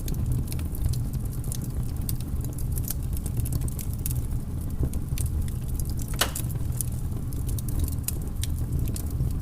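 Wood fire in a fireplace crackling, with many small irregular pops over a steady low rumble and one louder pop about six seconds in.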